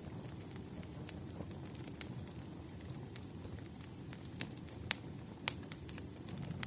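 Wood fire crackling: scattered sharp pops and snaps over a low steady rumble, with two louder pops about five seconds in.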